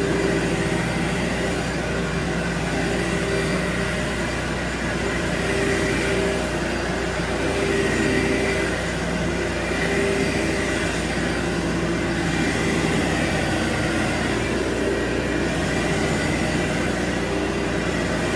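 Steady running of a carpet-cleaning machine motor, an even whirring noise with a constant whine, over the steady hiss of a pressure washer running in the background.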